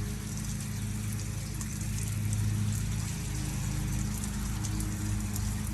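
Water running down a rain chain, trickling and splashing from link to link, over a steady low hum.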